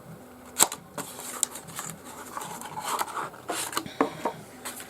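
Packaging being handled: rustling of plastic wrapping and box, with scattered sharp clicks and taps, the loudest about half a second in.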